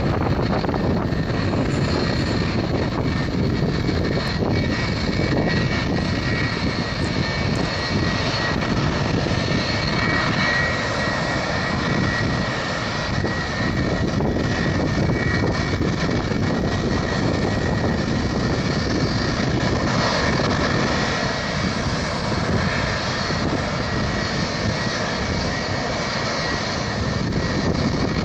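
Boeing 757-300 jet engines running steadily: a continuous rumble with a steady high-pitched whine over it.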